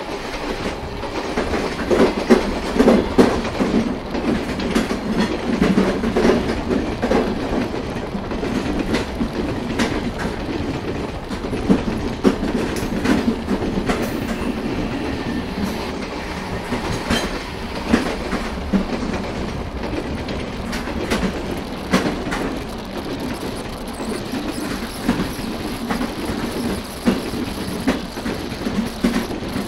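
Passenger train running at speed, heard from an open coach door: a steady rumble of wheels on rail, broken by scattered sharp clicks and knocks from the track.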